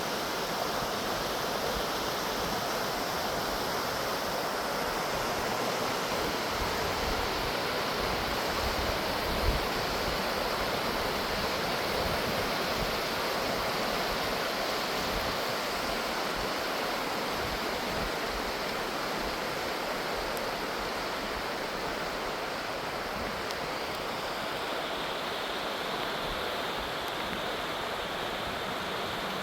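Steady, even rushing of running water, with one short sharp tick about nine and a half seconds in.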